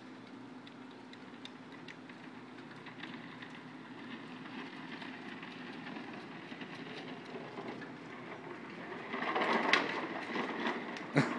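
Toy dump truck's wheels rolling and rumbling over a wet driveway, over a light hiss; the rumble grows louder and clattery about nine seconds in, with a sharp knock near the end.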